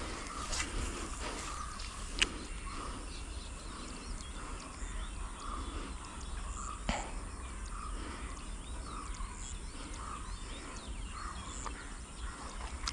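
Outdoor ambience with short bird chirps repeating every second or so. Sharp clicks sound at the start, about two seconds in and about seven seconds in.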